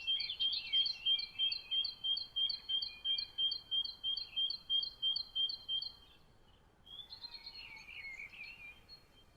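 Songbird repeating a bright two-tone chirp about three times a second, stopping about six seconds in. Then another bird's varied twittering over a faint background hiss.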